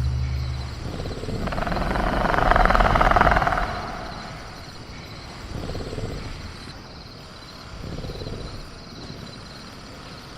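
Caged-velociraptor sound-effect ambience: a rough, rasping swell that rises and falls over about two seconds, followed by two fainter ones, over a steady chirring of crickets.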